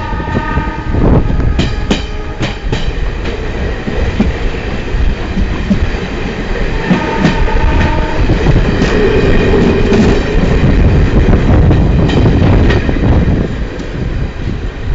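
Passenger train running close by with a steady heavy rumble and irregular clicks of wheels over rail joints. Its horn sounds near the start and again about seven seconds in.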